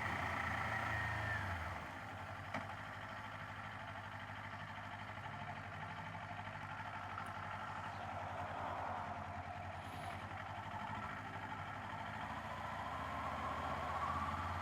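Kawasaki Z500's parallel-twin engine running steadily under way, a low hum with road and wind noise. There is a single click about two and a half seconds in, and a slowly rising note near the end.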